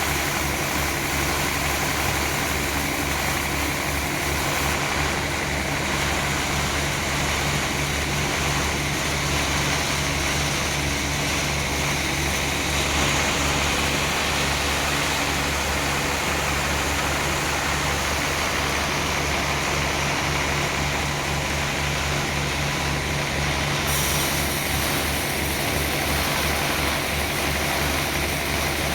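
Sawmill machinery running steadily, a constant low engine-like drone with no breaks or changes in level.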